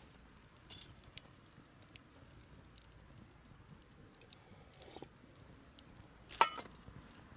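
Faint scattered clicks and ticks over a quiet background, with a louder cluster of clicks near the end.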